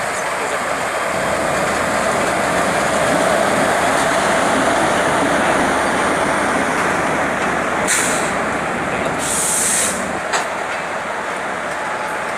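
Shatabdi Express passenger train running past, a steady rumble of wheels on the rails. Two short hisses come about eight and nine seconds in.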